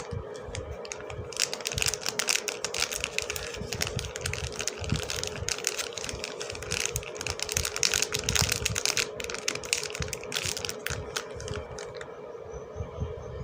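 Soap packaging being unwrapped by hand: a dense, rapid crinkling and crackling that stops about twelve seconds in, over a steady hum.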